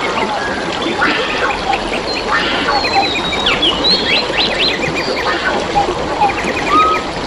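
Wild birds calling over steadily flowing, trickling water: quick chattering trills and short whistles from several birds, one after another.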